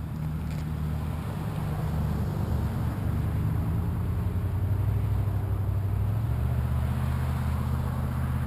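Sport motorcycle engine idling steadily, growing louder over the first few seconds and then holding.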